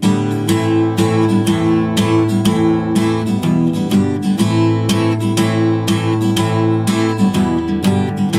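Acoustic guitar strummed in a steady rhythm with no singing over it, the playing growing suddenly louder right at the start.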